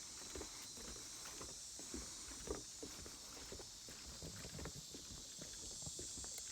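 Footsteps of two people walking on a wooden boardwalk, hollow knocks about two a second, over a steady high-pitched hiss.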